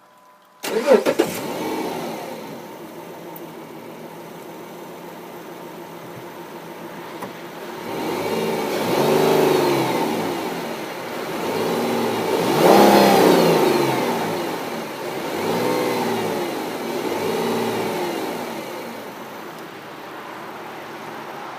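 2010 Dodge Charger SXT's engine starting with a sudden loud flare, then idling. It is blipped four times in the second half, each rev rising and falling back to idle, the third the strongest.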